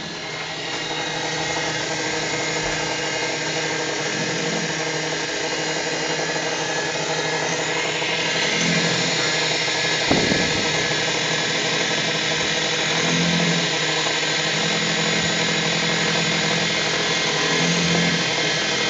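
CNC milling machine running, spindle whine and cutting noise from a 6 mm ball-nose end mill machining a gear, with a low hum that swells every few seconds. A single sharp knock about halfway through.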